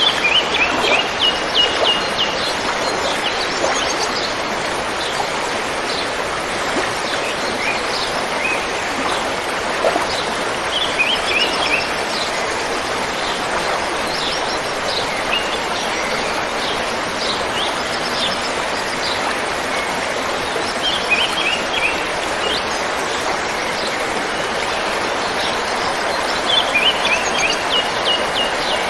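River water rushing steadily, with small birds chirping in short runs of quick notes every several seconds.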